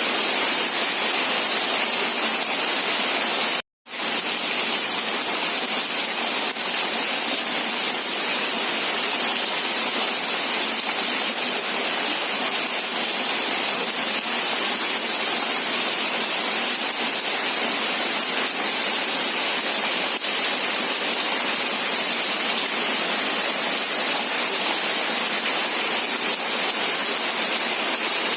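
Steady, even hiss of heavy rain falling, with no distinct drops standing out. It cuts out completely for a fraction of a second about four seconds in, then carries on as before.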